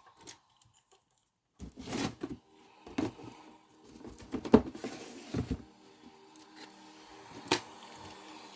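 Hard plastic toy pieces being handled, a few separate clicks and knocks, the loudest about halfway through, over faint background music.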